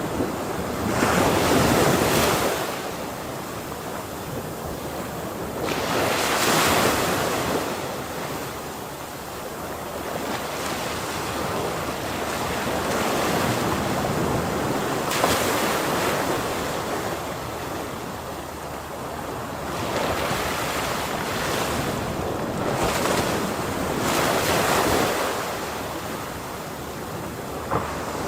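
Ocean waves crashing on a shore: several breakers swell up and fade one after another, a few seconds apart, over a continuous wash of surf.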